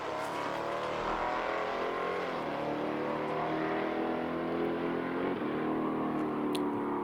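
Drag-racing car engines at full throttle down the strip, the pitch climbing through each gear and dropping at upshifts about two and a half and five and a half seconds in.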